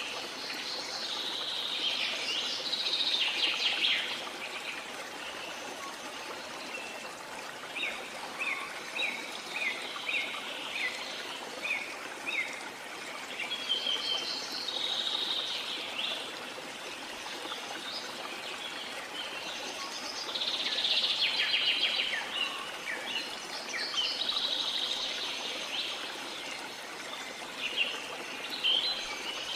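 Steady rush of a waterfall, with birds chirping and trilling over it in bursts every few seconds, including a run of short separate chirps.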